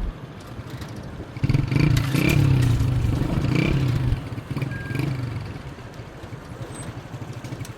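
Motorcycle engine running. It grows louder about a second and a half in and revs up and down for a few seconds, then settles lower.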